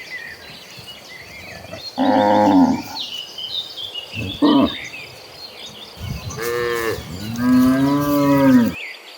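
Cattle mooing: four calls from the herd, a short one in the middle and the longest, loudest one near the end.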